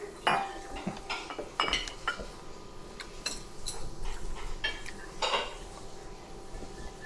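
Cutlery and dishes clinking at a meal: scattered, irregular clinks and taps of utensils on plates and bowls.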